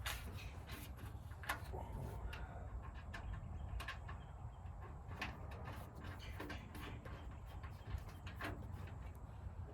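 Scattered light clicks and taps, about one a second, from the old spotlight and its mounting hardware being handled, over a low steady rumble.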